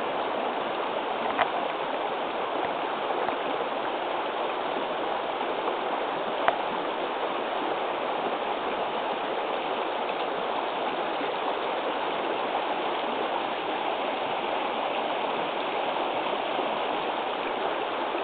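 Rain-swollen creek rushing fast and steadily over rocks, with two brief sharp clicks in the first part.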